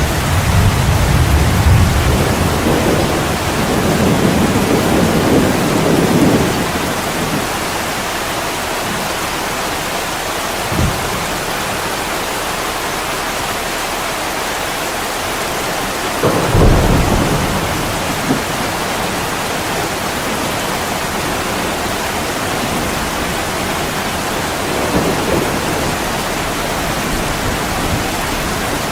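Heavy rain pouring steadily, with rolling thunder rumbling over the first six seconds and again about sixteen seconds in, and one short sharp crack about eleven seconds in.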